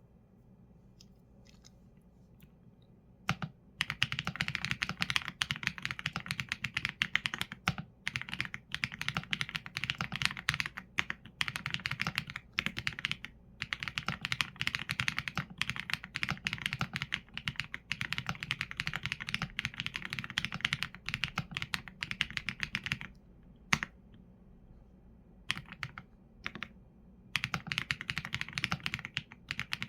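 Mechanical keyboard with Leobog Graywood V4 linear switches and PBT keycaps being typed on fast and continuously. The typing starts about three seconds in and runs in a steady stream of keystrokes, broken by a short pause with only a few strokes about three quarters of the way through.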